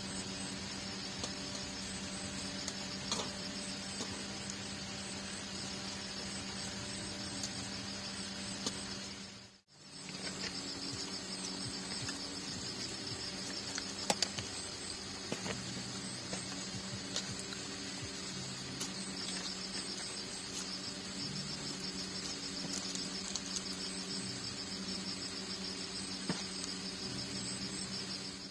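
Insects, likely crickets, chirping in a steady high trill over a steady low hum. The sound fades out briefly and comes back about a third of the way through.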